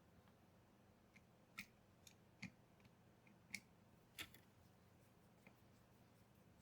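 Near silence broken by a handful of faint, sharp clicks, spaced about a second apart through the middle of the stretch.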